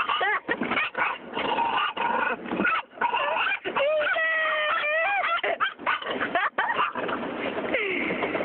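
Dog barking frantically in quick succession, breaking into long, wavering whining cries around the middle.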